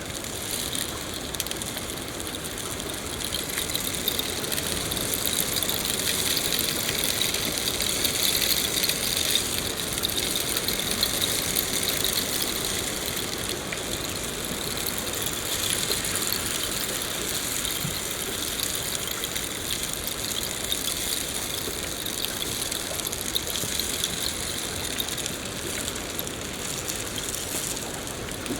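Steady rain falling, a dense hiss of many small drops, swelling a little between about four and ten seconds in.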